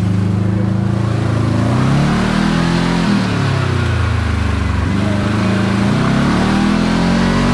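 Kawasaki KRX 4 side-by-side engine driving, its pitch rising about two seconds in, dropping back, then climbing again as the machine speeds up and slows along the road, over steady wind and tyre noise.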